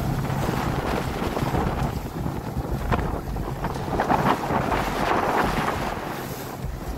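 Motorboat under way on a choppy lake: a steady low motor hum under heavy wind buffeting on the microphone, with water splashing against the hull, loudest about four to five and a half seconds in.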